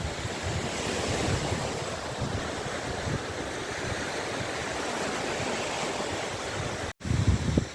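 Waves washing on a shore, a steady rush of surf with wind buffeting the microphone. The sound drops out for an instant about seven seconds in, then the wind rumbles louder on the microphone.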